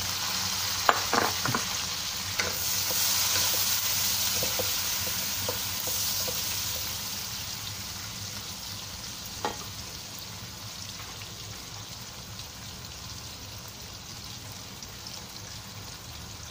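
Chopped bird's eye chillies, onion and garlic sizzling in hot oil in a wok as they are stirred with a wooden spatula. The sizzle swells a few seconds in, then settles to a steadier, softer frying, with a few light knocks near the start and one more about nine seconds in.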